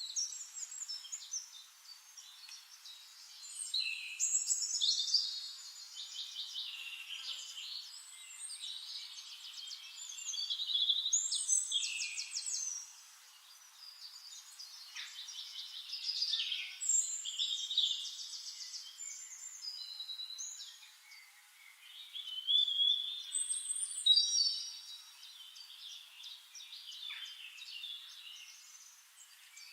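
Several songbirds singing in overlapping phrases of fast trills and chirps, one song after another without a break, rising and falling in loudness.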